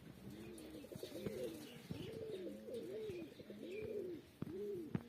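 Pigeons cooing over and over, each coo a low call that rises and falls in pitch, with a few sharp clicks near the end.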